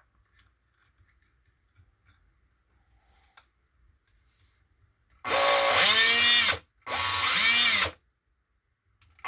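Makita 18-volt cordless drill run in two short trigger bursts about five seconds in, the motor spinning up and winding down each time, with faint handling clicks before. Its carbon brushes are worn, and it sounds bad.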